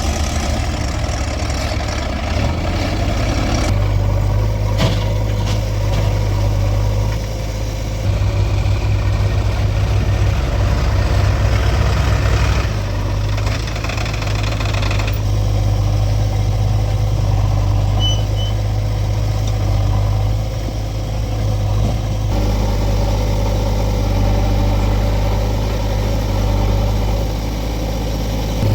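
Heavy diesel engines of a backhoe loader and farm tractors running steadily at work, with a deep hum. The sound shifts abruptly several times.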